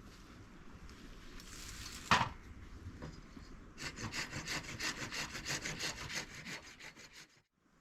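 A saw cutting wood in quick, even back-and-forth strokes, about five a second, after a single sharp knock about two seconds in.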